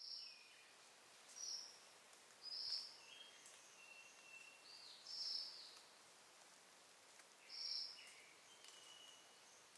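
Faint forest ambience with birds calling: about five short, high calls a second or two apart, and a few thin whistled notes between them, over a steady soft hiss.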